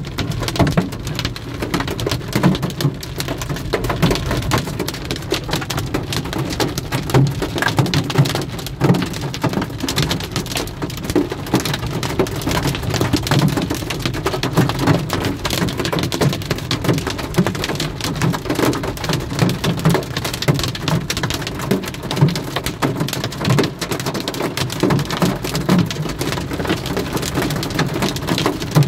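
Heavy summer rain falling steadily, a dense stream of drops striking a hard surface.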